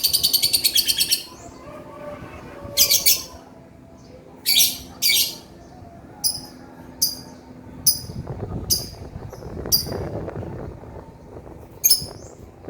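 Male lovebird singing: a fast, high-pitched chattering trill of about ten notes a second that breaks off about a second in, followed by single short, sharp chirps every second or so.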